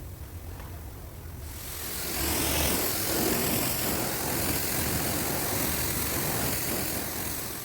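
Car-wash equipment over a low machine hum: a loud, steady rushing hiss starts about a second and a half in and holds, easing off near the end.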